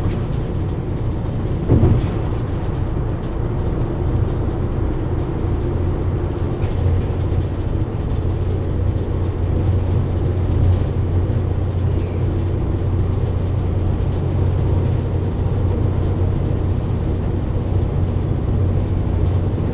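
Steady road and engine noise of a car cruising on a freeway, a low even rumble of tyres and drivetrain.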